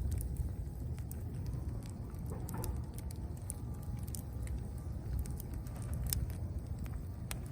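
Campfire of dead branches burning: a low steady rumble with scattered sharp crackles and pops, two of the loudest about six and seven seconds in.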